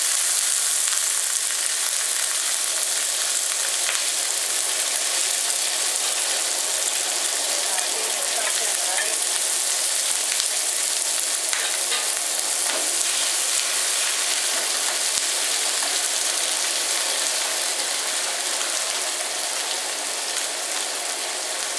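Blanched carrot, mangetout and squid sizzling in hot oil in a frying pan as they are stir-fried with a wooden spatula: a loud, steady, high hiss with occasional light clicks and scrapes of the spatula.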